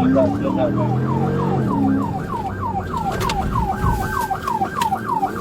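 A police patrol car siren in fast yelp mode, about four falling sweeps a second, during a pursuit. Underneath it, an engine revs up over the first two seconds.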